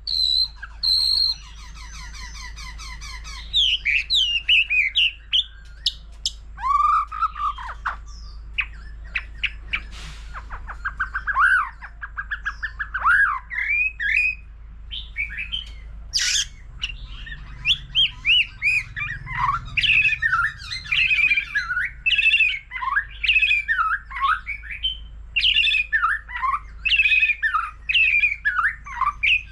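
White-rumped shama singing a long, varied song of whistled phrases that rise and fall, quick trills and short harsh notes, switching from one voice to the next.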